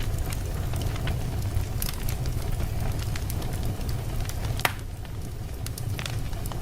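Fireplace fire crackling, with scattered sharp pops over a steady low rumble. The loudest pop comes a little before five seconds in.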